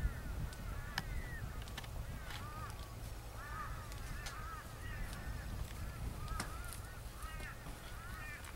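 Birds calling over and over in short clusters, each call a quick rise and fall in pitch, with a steady low wind rumble and a few sharp clicks.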